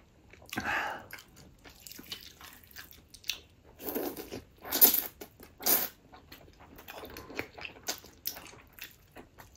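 A person chewing and biting food close to the microphone, in irregular bursts, with the loudest bites about four to six seconds in.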